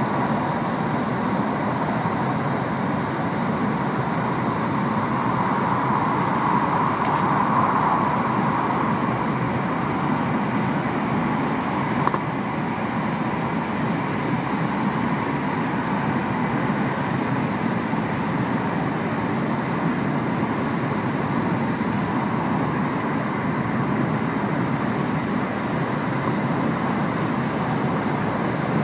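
Steady running noise heard inside the cabin of an N700 series Shinkansen: a continuous rush and rumble of the train moving along the line. A single sharp click comes about twelve seconds in.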